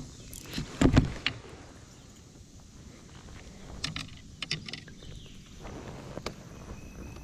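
Scattered clicks and knocks of gear being handled aboard a fishing kayak, the loudest knocks about a second in and a quick rattle of clicks around the middle.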